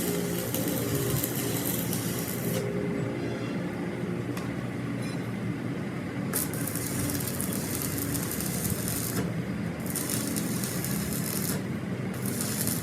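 Metalworking on a steel excavator track link: spells of harsh high hissing, each a second or two long, start and stop several times over a steady low machine hum.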